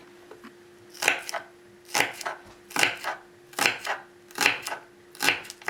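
A knife chopping food on a cutting board in an even rhythm: six firm strokes, about one every 0.8 seconds, each followed by a lighter knock.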